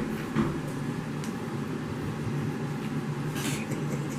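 Steady low mechanical hum, with a few soft brief rustles about half a second in and near the end.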